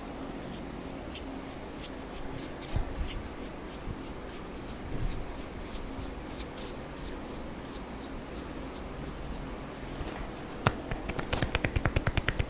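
Hands striking the upper back and shoulders in a percussive massage: a series of sharp slaps and taps, quickening near the end into a fast run of about eight strikes a second.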